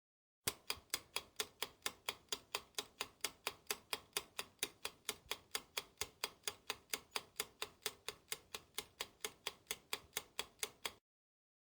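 Ticking clock sound effect, about four sharp even ticks a second, starting about half a second in and cutting off abruptly near the end.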